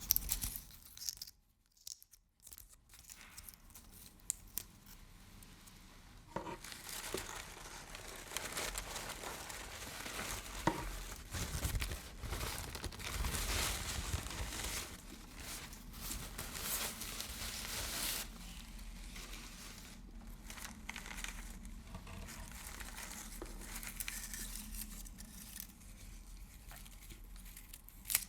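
Close-up ASMR crinkling: something is crumpled and crinkled right by the microphone in uneven waves, with a short near-silent pause about two seconds in.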